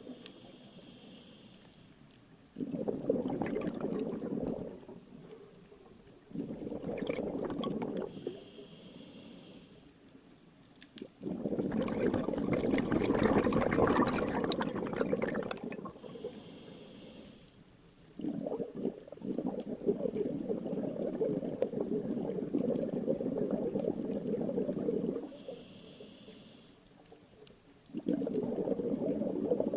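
Scuba diver breathing through a regulator underwater. Each inhale is a short airy hiss, each exhale a longer, louder rush of bubbles, about four breaths in all.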